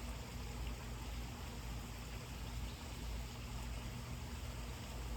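Steady background ambience: a low, even hum with a faint hiss over it, and no distinct event standing out.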